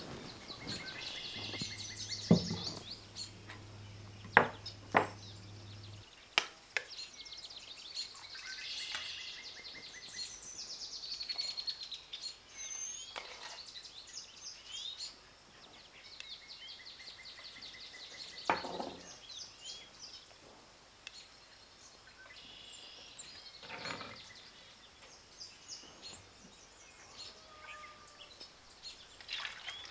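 Small birds chirping and trilling on and off, with a few sharp knocks and clinks of kitchen utensils, the loudest in the first several seconds. A low steady hum runs under the first few seconds.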